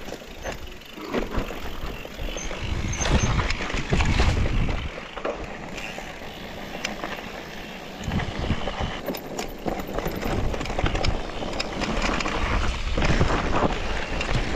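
Mountain bike riding over a rough dirt trail: an uneven rumble with scattered rattles and clicks, swelling and easing.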